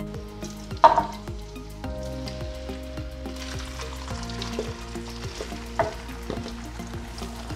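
Coarsely ground rice mixture being tipped from a bowl into hot coconut oil in a wok. It begins to sizzle about three seconds in as it lands in the oil. A sharp knock comes about a second in, the loudest sound.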